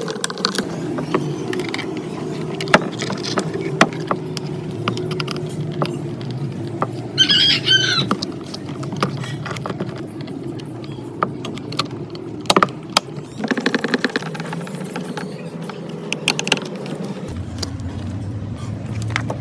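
A small engine running steadily, with scattered sharp clicks and knocks over it and a brief high squeal about seven seconds in.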